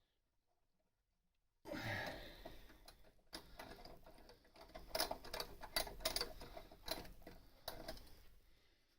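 Silence, then from about two seconds in, irregular light metallic clicks and ticks of hand tools and metal parts being handled.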